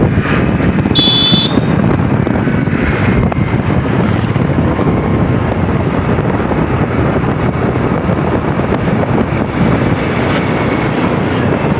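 Heavy wind buffeting the microphone over the rumble of a moving vehicle, steady throughout.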